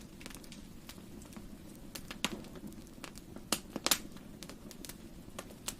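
Wood fire crackling in a fireplace: irregular sharp snaps and pops, the loudest a little after two seconds and around three and a half to four seconds in, over a soft steady low rush.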